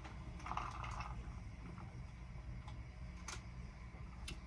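Soft sipping from a glass of cream soda over ice, followed by a few faint, separate clicks.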